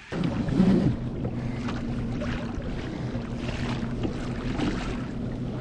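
A boat's motor running at a steady speed with a low, even hum, over water and wind noise, starting abruptly.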